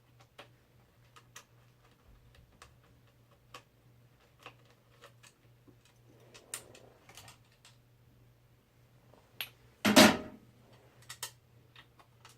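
Scattered small clicks and taps of hands working screws and metal parts on a computer case, with one louder clatter about ten seconds in. A faint steady hum runs underneath.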